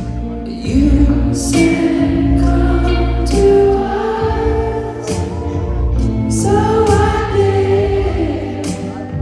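Live band music with sung vocals over steady bass and regular cymbal hits.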